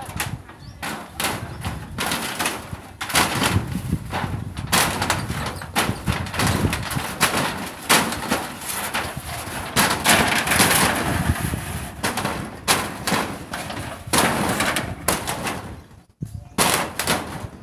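Irregular sharp knocks and bangs from hammering nails, sometimes several a second, with a noisier stretch about ten seconds in.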